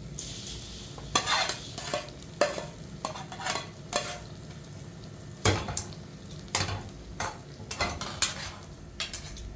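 A utensil scraping and clinking in a cooking pot in irregular strokes, as food is stirred, with a brief hiss at the start.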